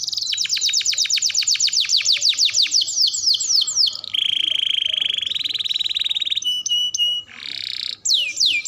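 Domestic canary singing a long unbroken song: a fast run of repeated downward-sweeping notes, about seven a second and slowing, then a steady buzzing trill for about two seconds, then short varied phrases and more falling sweeps near the end.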